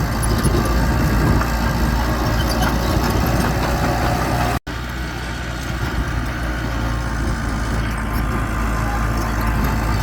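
Diesel engine of heavy earthmoving machinery running steadily, the sound strongest at the low end. The sound cuts out for an instant about halfway through, then resumes.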